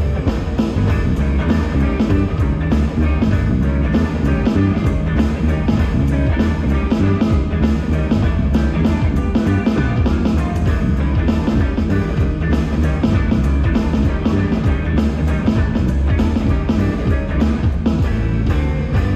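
Live rock band playing an instrumental passage between sung lines: guitar, bass and drum kit with a steady, even beat.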